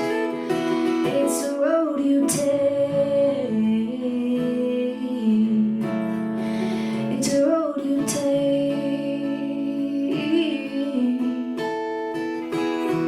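Live acoustic song: a woman's voice holding long sung notes with vibrato over a strummed acoustic guitar.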